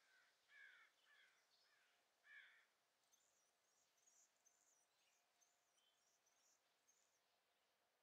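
Near silence with faint bird calls: about five short harsh calls in the first couple of seconds, then a run of high, thin chips.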